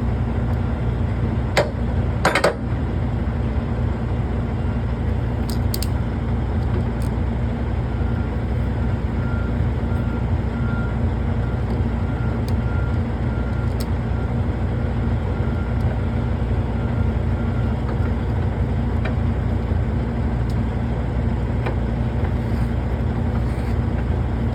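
Diesel semi-truck engine idling steadily with a constant low hum. A couple of sharp metallic knocks about two seconds in.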